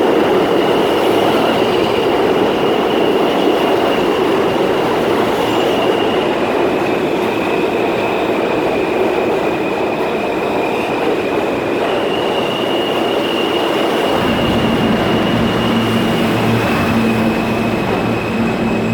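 R160 subway train running through, a loud steady rumble with a high whine above it that steps up and down in pitch a few times. About three quarters of the way through, a low hum sets in under the noise.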